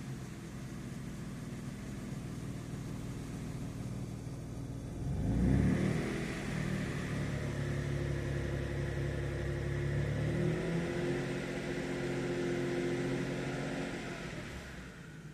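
Mitsubishi 3000GT VR4's twin-turbo V6 running: it idles steadily, then is revved once sharply about five seconds in. It holds a higher, steady speed before settling back around ten seconds in and quietening near the end.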